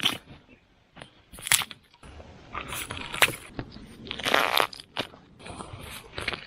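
Fresh bamboo shoots being pulled and snapped off by hand: a few crisp, sharp snaps, with a longer crackling snap a little past the middle.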